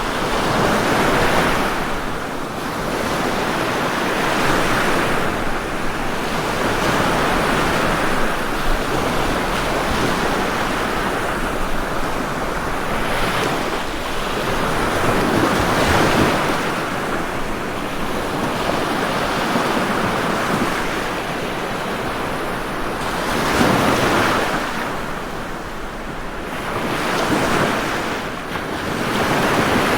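Ocean waves breaking and washing on a shore, a steady rushing surf that swells and ebbs every few seconds.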